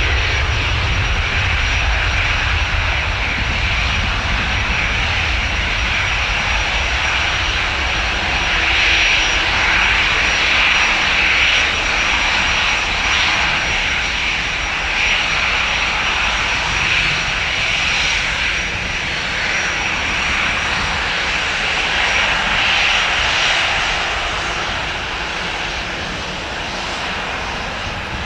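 Airbus A319 jet engines running at low power as the airliner taxis: a steady whine and rumble that swells and eases a little in loudness.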